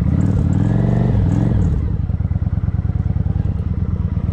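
Motorcycle engine revved once, its pitch rising and falling back over about two seconds, then settling to a steady pulsing idle.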